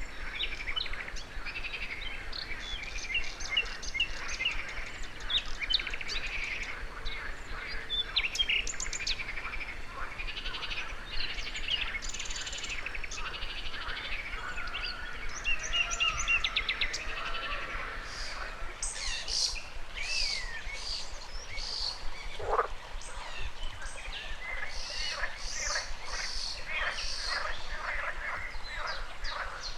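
Several birds chirping and trilling, mixed with frogs croaking, over a faint steady rush of river water. About two-thirds of the way through, one sharp call sweeps downward in pitch.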